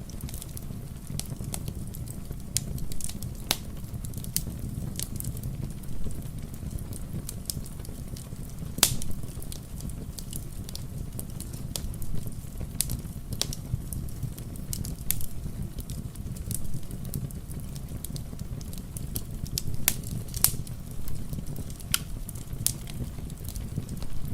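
Wood fire crackling in a fireplace: irregular sharp pops and snaps over a steady low rumble, with a loud pop about nine seconds in and another near twenty seconds.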